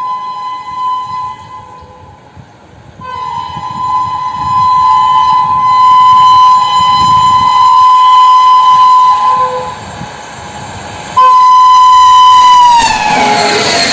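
Train horn sounding in three long blasts of a steady high tone as a train approaches. Near the end its pitch drops as the train passes, and the rushing noise of the passing train takes over.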